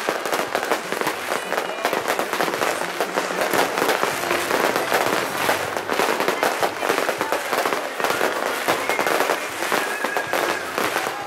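Fireworks display going off in a continuous dense barrage of bangs and crackles.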